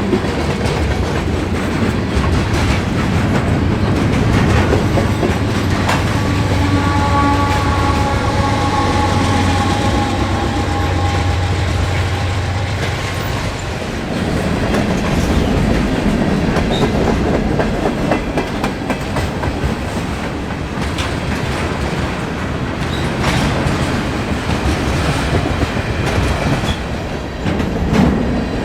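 CN manifest freight train rolling past, its wheels clicking over the rail joints. A deep rumble is strong for the first half, then eases. For several seconds about a fifth of the way in, a held tone at several pitches rings over the noise.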